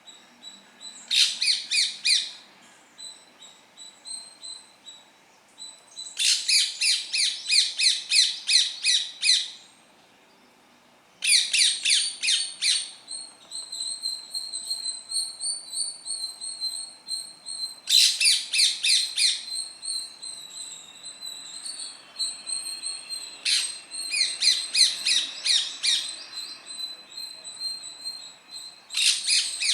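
Green Indian parrot giving bursts of rapid, harsh, repeated high squawking calls, several notes a second, each burst lasting one to three seconds with pauses between. A steady high whistle-like tone runs underneath from about twelve seconds in.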